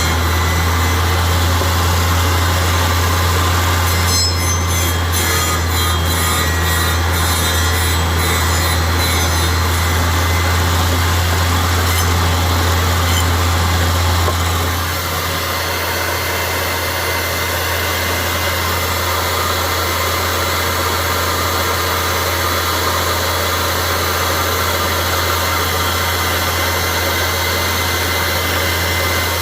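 Electric woodworking power tool running steadily with a low motor hum while wood for beehive frames is cut, with scattered clicks and ticks for a few seconds and a slight drop in level about halfway through.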